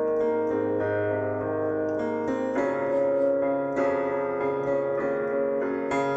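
Piano playing held chords, with new chords struck about two and a half, four and six seconds in.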